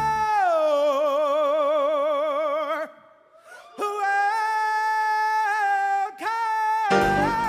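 A solo singer holding long unaccompanied notes with wide vibrato. The first note slides down soon after the start. After a brief pause come two more held notes, and the band comes back in near the end.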